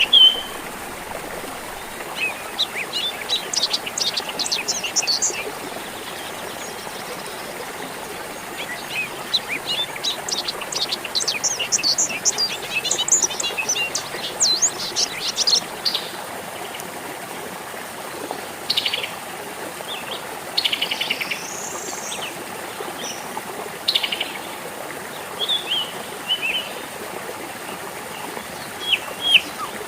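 Songbirds chirping in fast runs of high notes, in two long bursts and then scattered calls, over a steady trickle of flowing water.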